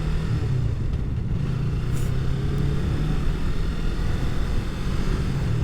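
Motorcycle engine idling steadily, its pitch holding level.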